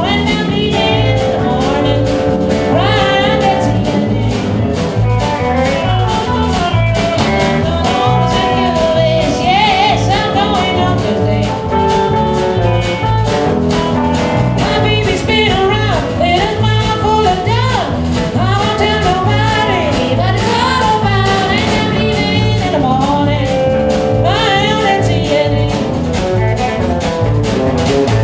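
Live band music with a steady drum beat and pulsing bass under a wavering lead melody that sounds sung but carries no clear words.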